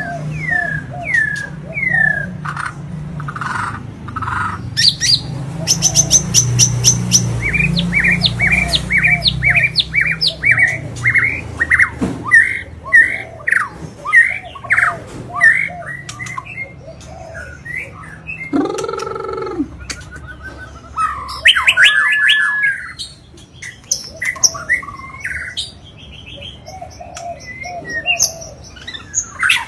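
White-rumped shama (murai batu) singing an agitated, varied song: quick falling whistles, fast high trills, a run of repeated notes about two a second, a harsher lower call partway through and a long held whistle near the end.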